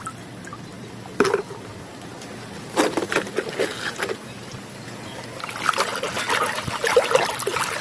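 Water splashing and trickling as a toy vehicle is washed by hand, with small knocks and clatter of handling, thicker in the second half.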